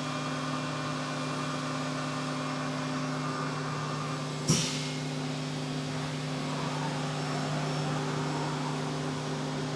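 Haas UMC 750 SS five-axis CNC mill running a spring pass, the end mill going back over the finish path to take up flexure in the tool and work holding: a steady machine hum with several held low tones. A single sharp knock about four and a half seconds in.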